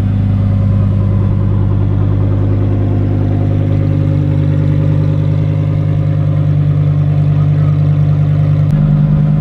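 Engine idling steadily, its pitch stepping up a little near the end.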